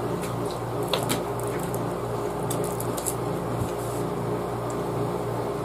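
Steady low hum of a running appliance, with a few faint clicks.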